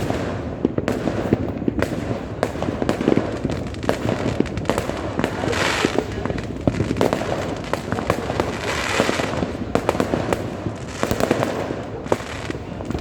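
A massed New Year's fireworks display: many shells and firecrackers bang in a dense, continuous barrage, with louder stretches of fizzing crackle about six and nine seconds in.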